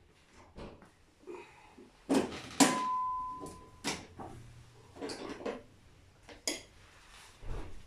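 Metal parts and tools of a brake booster being handled during disassembly: a string of clanks and knocks, with two loud strikes about two seconds in, the second leaving a short metallic ring.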